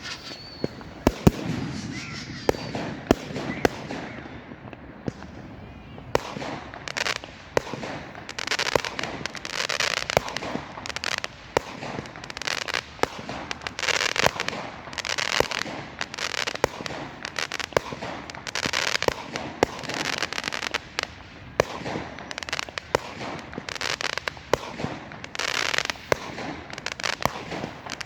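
Fireworks going off in a display: sharp bangs near the start, then a steady run of crackling bursts with scattered sharp reports.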